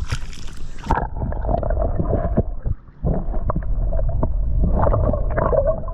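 Creek water heard through a camera held under the surface: a splash, then, about a second in, the sound turns muffled as the camera goes under, a dull rushing and gurgling with knocks from the camera being handled.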